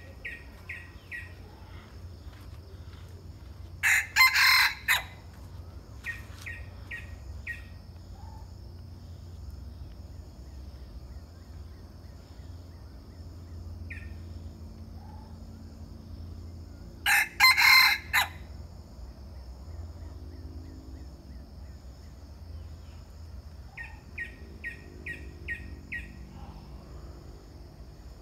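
Bantam rooster crowing twice, each crow short, about thirteen seconds apart, with short runs of rapid clucking notes in between.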